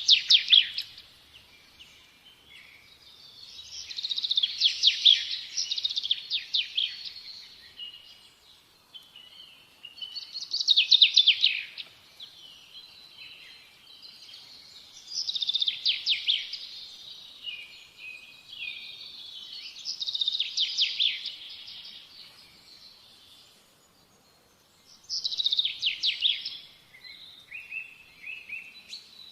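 Songbird singing: phrases of rapid high trilled notes about every five seconds, with softer chirps between them.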